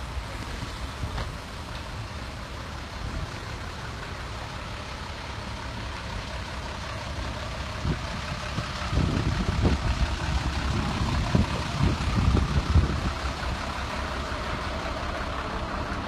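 Wind buffeting the microphone over a steady outdoor rush, the buffeting growing heavier and gustier from about nine to thirteen seconds in.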